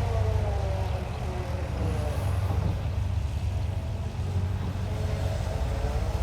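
Diesel engine of a heavy construction machine running steadily, with a whine that slides down in pitch and back up again.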